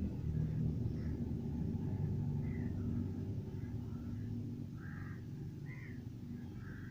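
A low, steady engine rumble, with faint short chirps scattered above it.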